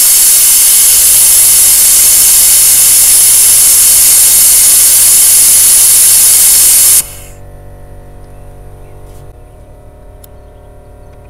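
Compressed air hissing loudly through a pneumatic venturi vacuum brake bleeder, pulling brake fluid out through the caliper's bleed screw. The hiss cuts off suddenly about seven seconds in, leaving a faint steady hum.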